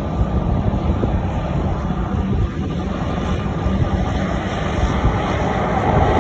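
Jet airliner engines rumbling steadily, growing a little louder near the end.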